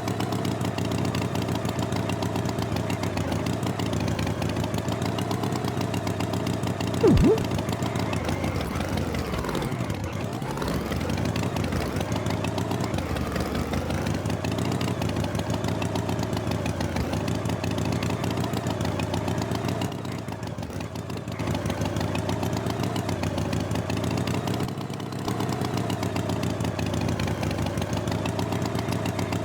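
A motor engine running steadily, with a short louder burst about seven seconds in and a dip and rise in pitch around ten seconds.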